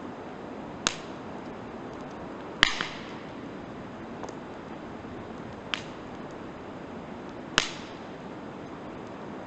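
Firewood crackling in a campfire: four sharp pops, about two seconds apart, the loudest about two and a half seconds in with a smaller pop just after it, over a steady low hiss.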